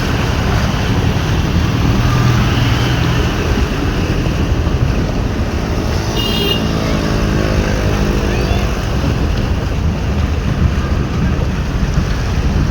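Road traffic with heavy wind noise on the microphone. About six seconds in, a motor vehicle engine passes, its pitch sliding, along with a short beeping horn.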